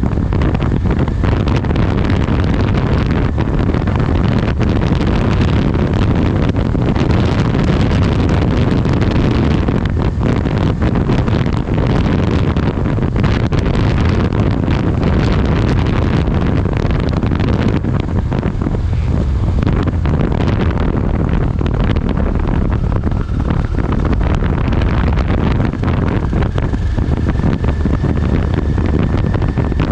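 Strong, steady wind noise buffeting the microphone over a constant low vehicle rumble.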